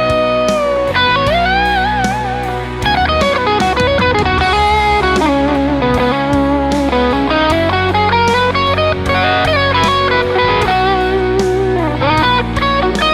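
Fender Custom Shop Telecaster electric guitar playing lead lines over a backing track with drums. There are held notes shaken with vibrato and bent in pitch, and a fast run of short notes in the middle that falls and then climbs again.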